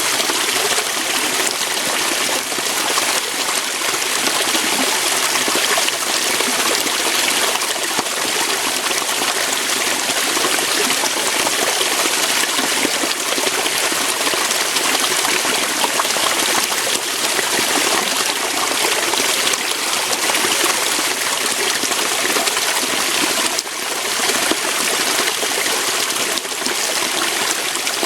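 Waterfall, water flowing over rocks: a steady, even hiss of splashing water with little deep rumble.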